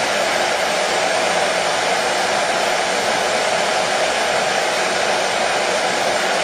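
Hair dryer running steadily: a constant, unchanging whoosh of fan and airflow.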